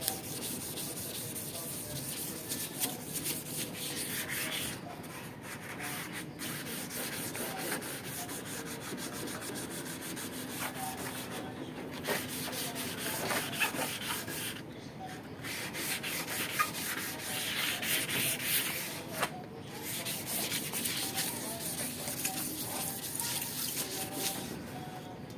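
Hand scrubbing on the stainless steel side panels of an exhaust hood while cleaning them. It is a steady rubbing in stretches, broken by a few short pauses.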